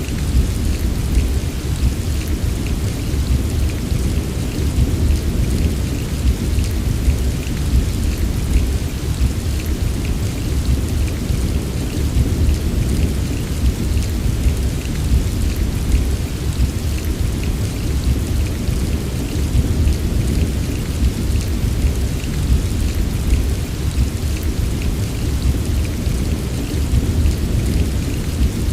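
Steady rain falling, with a constant deep rumble underneath and no distinct claps or breaks.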